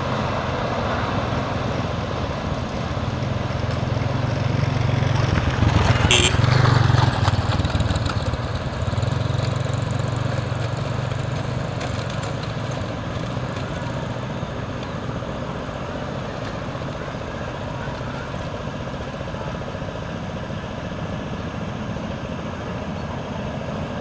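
Diesel train running past a railway level crossing: a steady low engine drone that swells to its loudest about six seconds in, with a short high-pitched sound at that point, then slowly fades.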